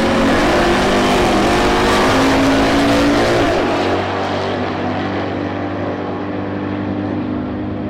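Two drag-racing muscle cars, a Plymouth GTX and a 2018 Dodge Challenger, at full throttle off the line and accelerating down the strip. The engine pitch climbs, then drops about three and a half seconds in, and the sound gets quieter after about four seconds as the cars pull away.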